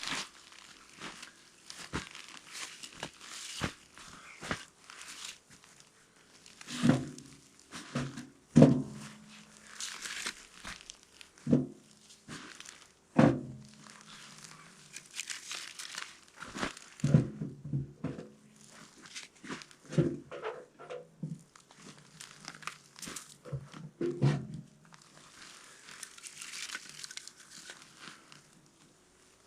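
Crinkling and rustling with irregular knocks of wood on wood: firewood and kindling being handled and loaded to light a tent stove.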